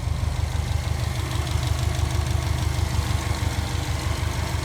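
Subaru EJ255 turbocharged 2.5-litre flat-four engine idling steadily, with an even, fast low pulse.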